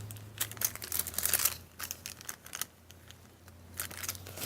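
Cellophane bags crinkling as they are handled, in scattered crackles through the first second and a half and again near the end, quieter in between. A faint low hum runs underneath.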